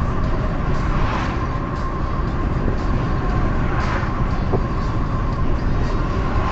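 Steady rumble of a car driving on a highway: road and engine noise, with a faint steady hum through it.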